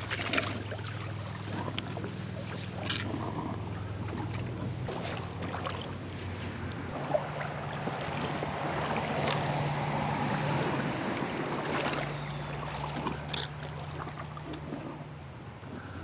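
Someone wading through a shallow rocky creek: water sloshing and splashing around the legs, with scattered knocks of footsteps on stones.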